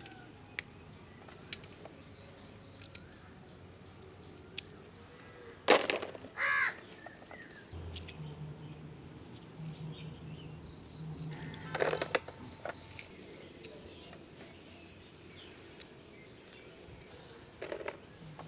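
Outdoor ambience of birds calling: a loud call about six and a half seconds in, just after a sharp knock, another near twelve seconds, and short faint high chirps now and then.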